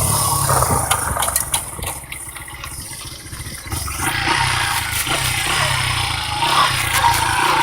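Dirt bike engine running. It drops off for a second or two in the middle, then picks back up about four seconds in.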